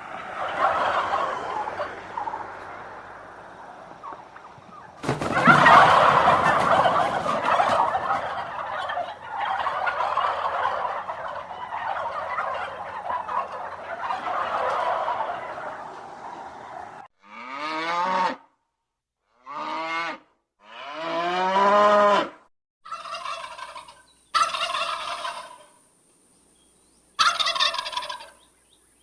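Domestic fowl calling: a dense flock chorus for the first half, changing abruptly about five seconds in. Then come separate calls that bend in pitch, and short repeated calls near the end, with a faint steady high whine.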